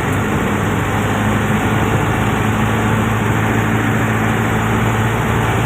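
An engine idling steadily: a constant low hum with a noisy wash over it.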